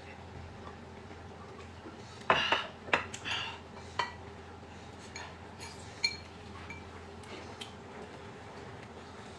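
Tableware clinking during a meal: a quick cluster of knocks and clinks about two seconds in, then single ringing clinks about four and six seconds in.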